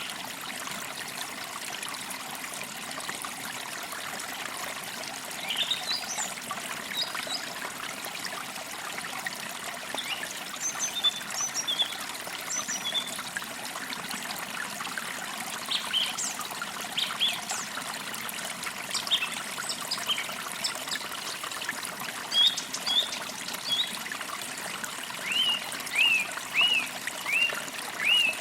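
Forest creek trickling steadily over stones, with small songbirds chirping on and off above it and a run of quick downward chirps near the end.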